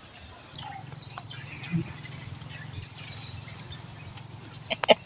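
Small birds chirping in short high calls, over a steady low hum, with a few sharp clicks near the end.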